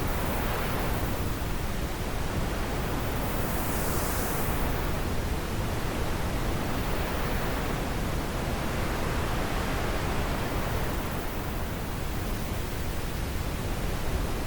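Wind blowing steadily, an even rushing noise that swells and eases slowly, with a brief brighter hiss about four seconds in.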